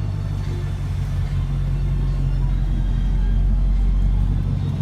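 A car engine running close by, a steady low rumble that grows slightly louder towards the end.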